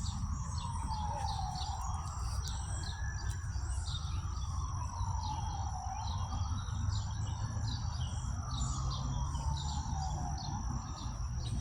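Birds chirping over and over, about twice a second, against a steady high insect whine. Under them a faint siren wails, slowly rising and falling three times.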